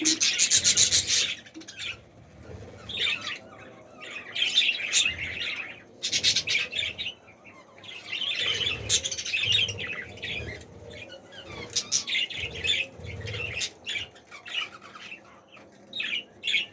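A flock of budgerigars chattering and chirping in a breeding colony, in overlapping bursts of rapid high-pitched calls.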